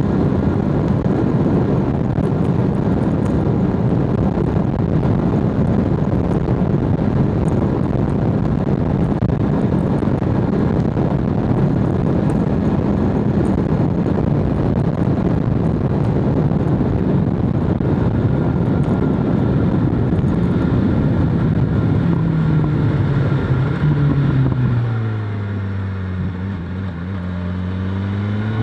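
BMW S1000RR inline-four engine holding steady revs under heavy wind rush at riding speed. About 22 seconds in the revs fall as the bike slows, then climb again near the end as it accelerates.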